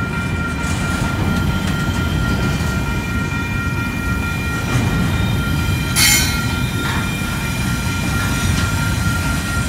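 Double-stack intermodal freight train rolling past: a steady rumble of wheels on rail, with thin steady wheel squeal over it and a sharp metallic crack about six seconds in.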